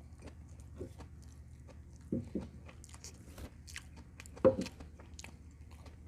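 A person chewing and eating close to the microphone: soft wet mouth clicks throughout, with a few louder smacks about two seconds in and a loudest one about four and a half seconds in.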